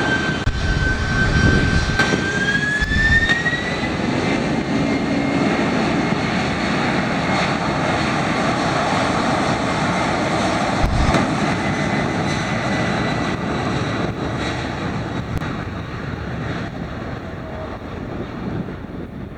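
Boeing 767-300ER freighter's twin jet engines at takeoff power: a loud roar with a high whine that climbs in pitch over the first few seconds, then holds steady, the roar easing slightly near the end.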